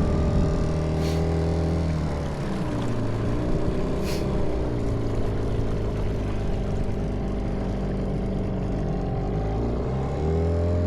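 Motorboat engine running under way. Its pitch drops a couple of seconds in as the throttle is eased, then rises again near the end.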